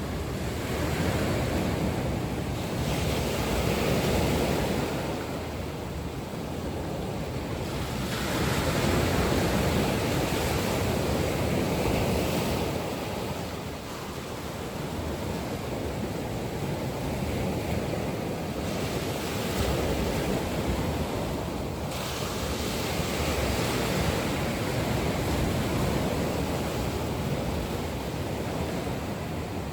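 Ocean waves breaking on a shore: a continuous wash of surf that swells and eases every few seconds.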